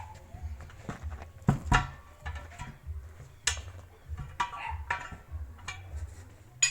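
Irregular metal-on-metal clanks and knocks from tools working on a steel wheel. Each strike rings briefly, the loudest a pair about a second and a half in and one at the end. A low, pulsing rumble runs underneath.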